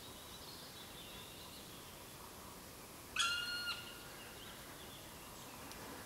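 A single loud bird call about three seconds in, one even-pitched note held for about half a second, over faint birdsong and quiet forest background.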